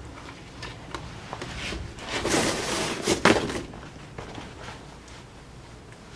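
Handling noises: a few light knocks and a louder rustling, scraping stretch about two seconds in, as objects are moved about.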